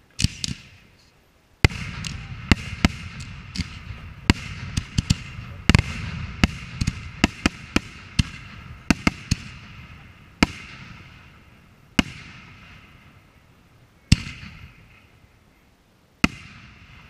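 Aerial firework shells bursting: a dense volley of sharp bangs for the first half, then single booms about two seconds apart, each trailing off in a rolling echo.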